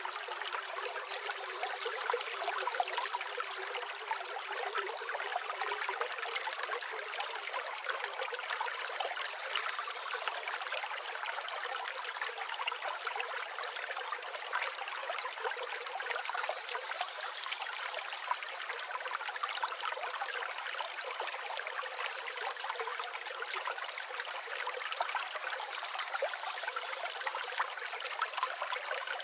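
Steady rushing and trickling of a flowing river, with a few faint, high bird chirps around the middle and near the end.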